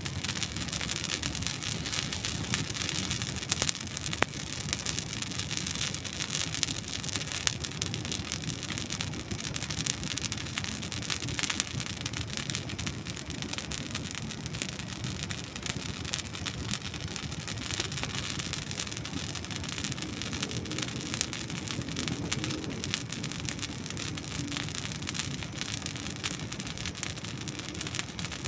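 Wood campfire burning: dry logs crackling in a dense, steady patter of small pops and snaps, with a few sharper cracks standing out.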